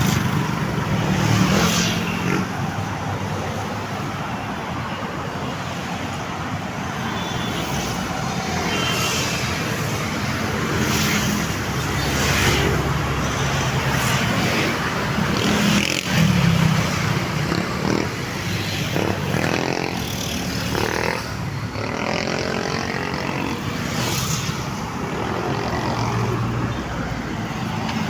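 Road traffic: motor vehicles running and passing, a steady mix of engine and road noise that rises and falls in loudness.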